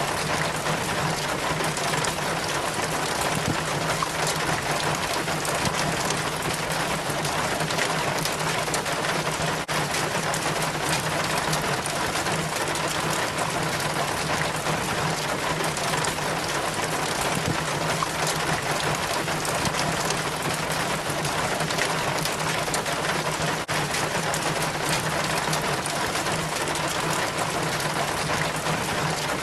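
Rain water trickling and splashing down a rain chain from the gutter in a steady, unbroken patter, with a steady low hum underneath.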